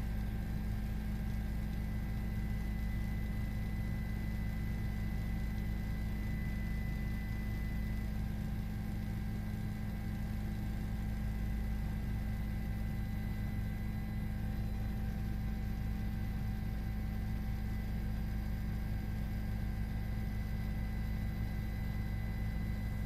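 Steady, unchanging mechanical drone, heavy in the low end, with a few faint steady whining tones above it.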